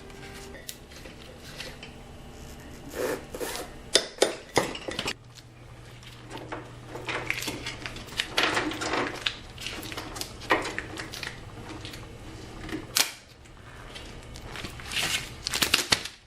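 Metal hand tools and motorcycle drive parts clinking, scraping and knocking irregularly during chain and sprocket work, with a few sharp clanks and a low steady hum through the middle.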